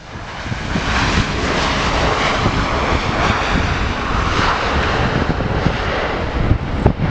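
Jet airliner's engines, a loud steady rushing noise as the aircraft passes, building over the first second and then holding.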